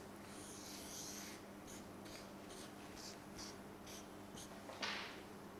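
Faint scratching of writing by hand: a short run of scratchy strokes, then one louder, longer swish near the end.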